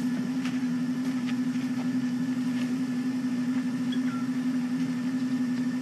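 Safari game-drive vehicle's engine idling, a steady low hum.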